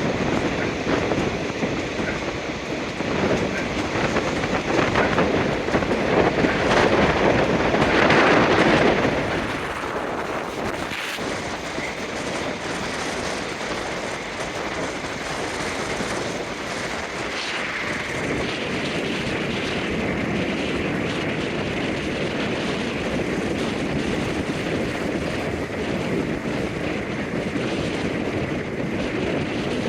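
Passenger train running on the rails: a steady rumble of wheels on track with clickety-clack, growing louder for a few seconds and then settling back.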